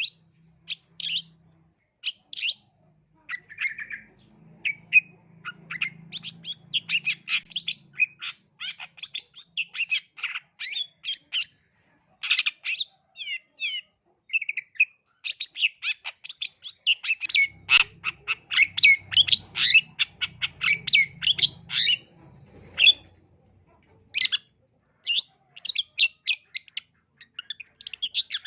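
Long-tailed shrike (cendet) singing non-stop: a fast, varied chatter of short chirps, trills and harsh squawky notes, with only brief pauses.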